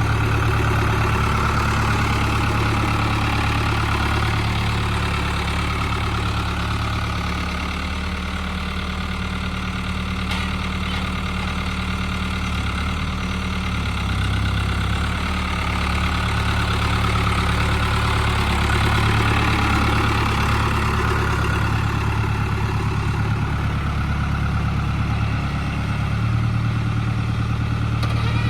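Case tractor engine running steadily at idle, with a slight dip in level about a third of the way through.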